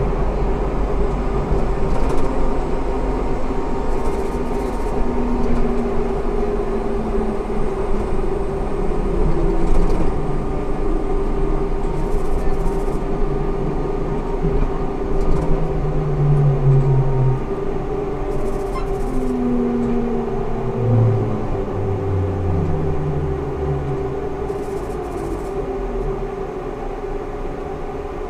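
Ikarus 280T trolleybus with GVM electrical equipment running: a steady electric whine over a low rumble, with short traction-drive tones sliding up and down in pitch in the middle as it pulls away and slows.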